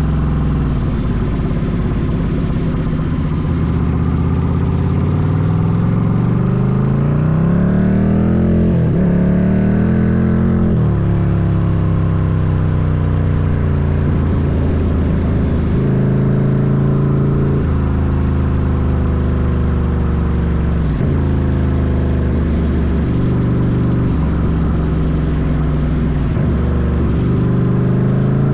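Ducati Scrambler's L-twin engine running under way. About a quarter of the way in it rises in pitch for a few seconds as the bike accelerates, drops back near the middle, then holds fairly steady with several shorter dips and rises as the throttle changes.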